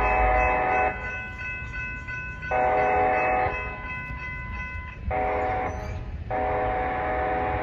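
Locomotive air horn sounding a chord in the grade-crossing pattern: long, long, short, then a long blast that is held, over the low rumble of the train.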